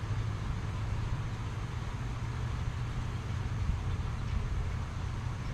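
Steady rain hiss with a low, continuous rumble underneath.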